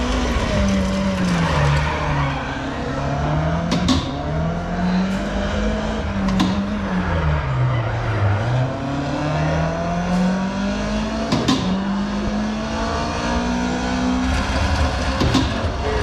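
Race car engine revving up and down, its pitch rising and falling repeatedly as it accelerates and brakes through corners, with a few sharp clicks.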